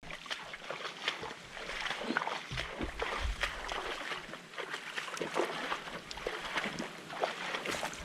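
Irregular sloshing and splashing of water, with scattered small knocks and clicks throughout.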